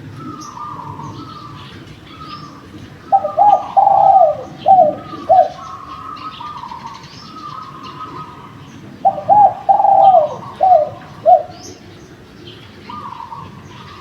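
Spotted dove (derkuku) cooing: two loud phrases of four or five coos each, the last coo short, the first about three seconds in and the second about nine seconds in. Fainter cooing from other doves and small-bird chirps go on underneath.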